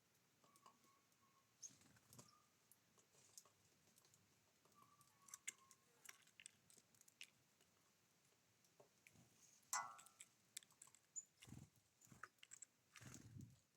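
Small birds at a feeder: faint irregular pecking and tapping clicks, with a few short, thin chirps.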